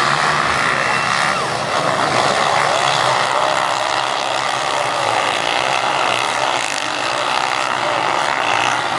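Several motocross bikes' engines running and revving together in a steady din, their pitch sliding up and down.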